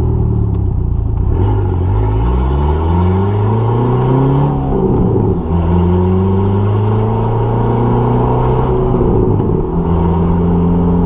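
Dodge Neon SRT-4's turbocharged 2.4-litre four-cylinder accelerating hard, climbing through the revs, dropping at a gear change about five seconds in and again near the nine-second mark, then running steady. It is pretty loud, with the turbo dumping straight off the O2 housing and no downpipe fitted.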